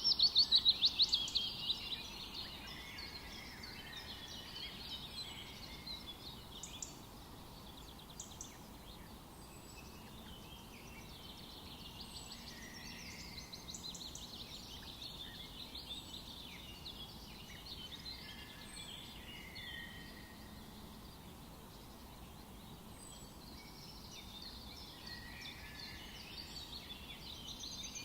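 Forest birds singing, several at once, over a light outdoor hiss. In the first two seconds one bird gives a loud song of rapid repeated notes. After that, fainter chirps and warbles carry on.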